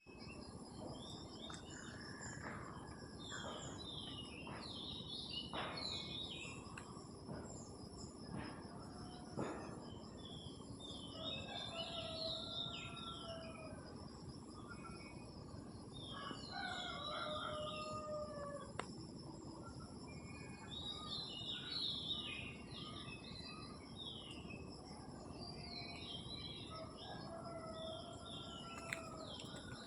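Several songbirds chirping and singing in repeated quick phrases, with some lower whistled notes, over a steady high-pitched insect chorus such as crickets and a faint background hiss.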